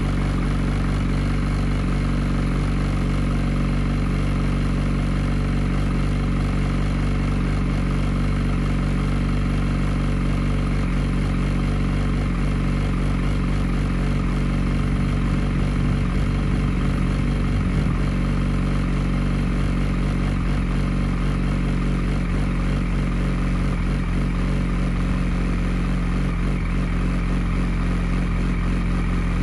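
2007–2008 Yamaha R1's inline four-cylinder engine idling steadily through an aftermarket Akrapovič Y-pipe and Scorpion canister, warming up after a cold start.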